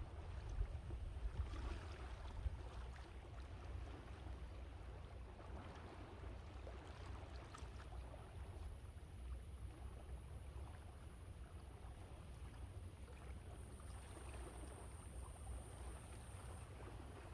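Sea waves washing in steadily, with wind buffeting the microphone as a low rumble.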